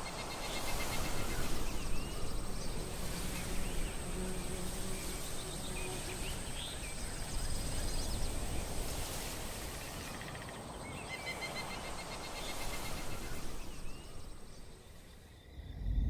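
Outdoor nature ambience: a steady high insect drone with pulsed trills and short bird chirps over a background hiss, fading near the end.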